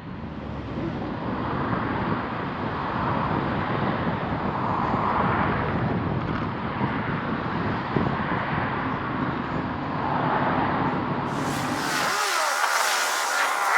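A car driving along the road: a steady rush of tyre and engine noise that swells and eases a little. Near the end it cuts off suddenly and a voice begins.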